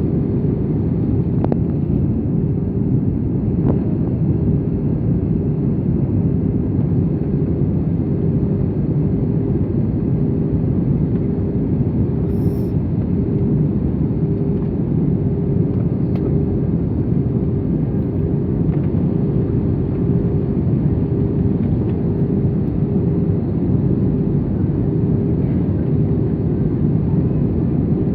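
Steady cabin noise inside an Airbus A320 airliner during descent: a continuous low rumble of engines and airflow with a steady hum running through it.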